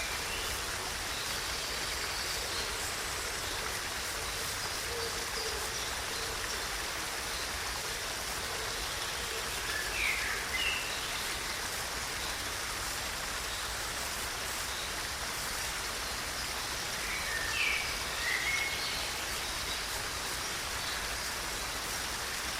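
Steady wash of running water, with a bird giving short chirps at the start, about ten seconds in, and again a few seconds later.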